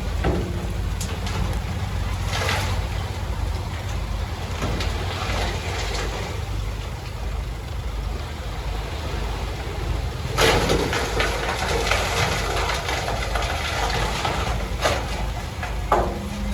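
Heavy diesel earthmoving machine running with a steady low engine rumble, with a louder burst of hiss and rattling about ten seconds in and a few short clanks.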